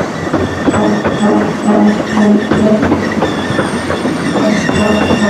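Steam-hauled narrow-gauge train running along the line, heard from aboard: wheels clicking and knocking over the rail joints over a steady rumble. A thin high squeal of wheels on rail comes in about two-thirds of the way through.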